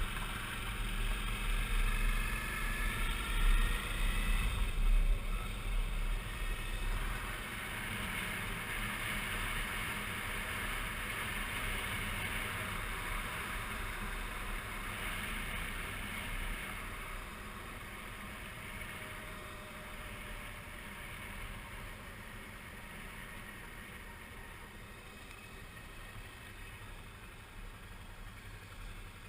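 Suzuki V-Strom 650 V-twin motorcycle being ridden, with rushing wind and road noise. The engine note rises over the first few seconds, then the sound settles and grows gradually quieter.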